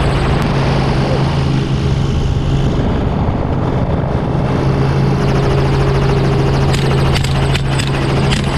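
Helicopter engine and rotor running steadily, heard from aboard as a loud constant hum with a noisy wash over it. A few sharp cracks come through near the end.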